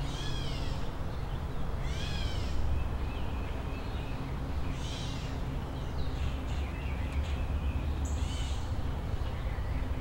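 A bird calls four times, each short call rising then falling in pitch, over a steady low hum.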